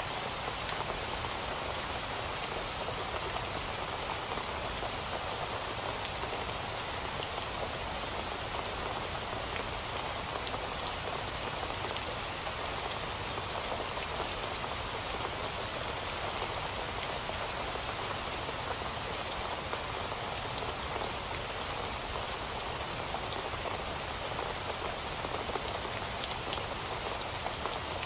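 Steady rain falling, an even hiss of drops with faint scattered drop ticks.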